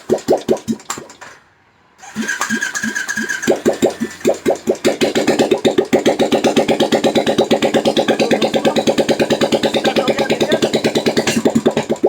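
Royal Enfield motorcycle engine cranked by its electric starter. It stops for about a second, cranks again, catches about three and a half seconds in and settles into a fast, steady beat. The silencer is off, so the exhaust is loud and open, a 'phat phat' that covers the engine's tick.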